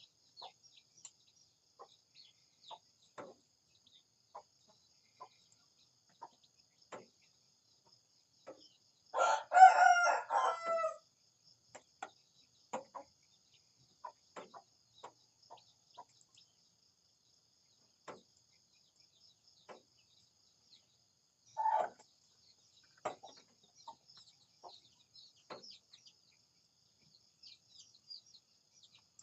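Rooster crowing once, loudly, about nine seconds in, a crow lasting about two seconds, with a shorter call near the twenty-second mark. Short clucks and clicks are scattered throughout, over a faint steady high-pitched trill.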